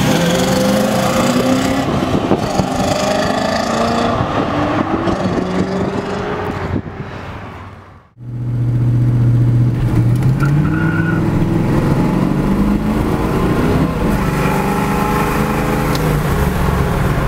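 V8 engine of a C3 Chevrolet Corvette accelerating hard, its pitch climbing in rises through the gears, then fading away about eight seconds in. After a brief silence another car's engine is heard from inside the car, holding a steady note and then accelerating, its pitch climbing several times as it pulls through the gears.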